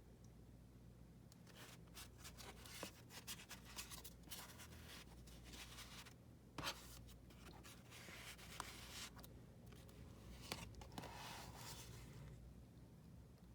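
Faint rustling and sliding of cardstock as the flaps, waterfall pull-outs and card inserts of a handmade paper folio are handled, with a few soft taps.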